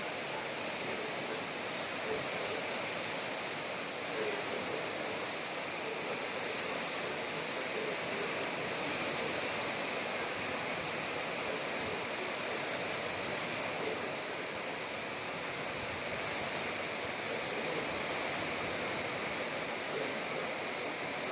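Steady rushing outdoor background noise, even in level, with no distinct calls or knocks standing out.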